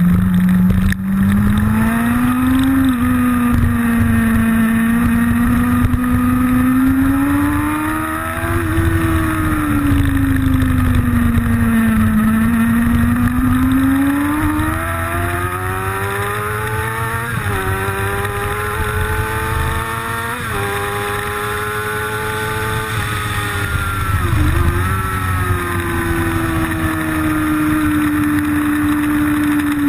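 Motorcycle engine recorded onboard at speed, its note rising and falling as the bike accelerates and slows through the corners, with sharp breaks in the note a little past halfway. A steady low rumble of wind on the microphone runs underneath.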